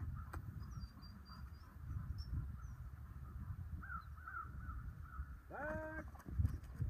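Outdoor bird calls over a low rumble: faint short chirps throughout, and one loud call with a brief rising start a little before the end, like a crow's caw.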